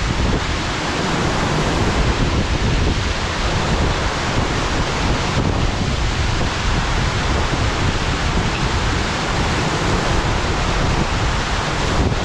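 Waterfall pouring in a steady, loud rush, with wind buffeting the microphone as a fluttering low rumble.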